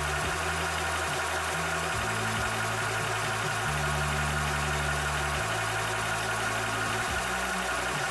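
Cobra portable high-pressure PCP air compressor running steadily while pumping: a continuous mechanical drone with a steady high whine over it.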